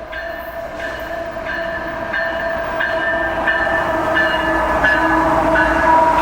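CSX freight train approaching behind an EMD SD40-2 diesel locomotive, its engine hum growing steadily louder, with a regular ringing stroke repeating a little under once a second.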